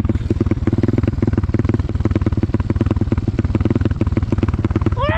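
Single-cylinder four-stroke pit bike engine running at a steady low speed: an even, rapid firing pulse with no revving.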